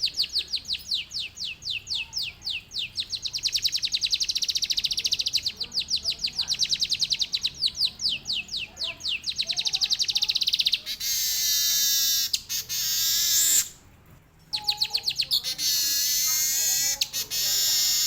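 Manyar (weaver bird) singing a rolling song with canary-like phrases: a fast run of rapidly repeated sweeping high notes for about ten seconds, then a long buzzing, wheezy trill with a brief break about two-thirds through.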